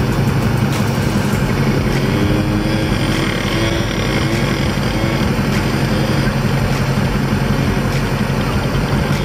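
An engine idling steadily, with an even low hum throughout.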